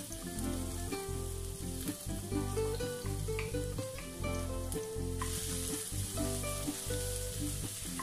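Julienned ginger sizzling as it fries in hot cooking oil in a non-stick wok; the sizzle grows brighter about five seconds in. Soft background music plays underneath.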